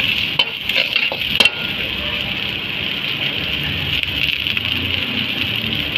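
Chopped vegetables sizzling and frying in hot oil in a pan: a steady hiss, with a few sharp knocks in the first second and a half.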